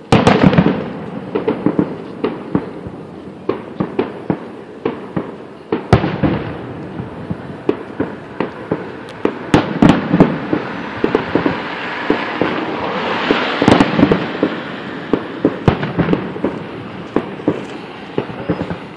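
Fireworks display going off: a steady run of bangs and crackling, with the loudest bangs right at the start, about six seconds in and again near the fourteen-second mark, and a swell of crackling just before the last of these.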